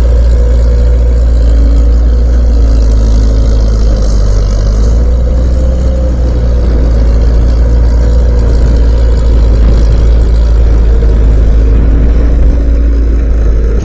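Skid steer engine running steadily and loud, close to the microphone, its pitch wavering slightly as the revs shift.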